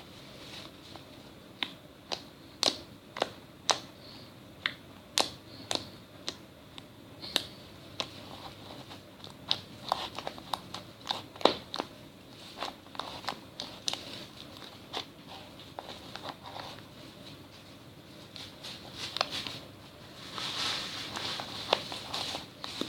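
Slime being played with by hand, trapped air in it popping in sharp, irregular clicks, with a denser run of crackly squelching near the end.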